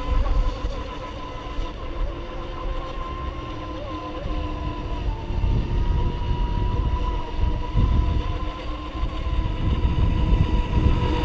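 Brushless electric motors of RC racing boats running at speed, a steady whine that wavers slightly in pitch with the throttle, over a low rumble.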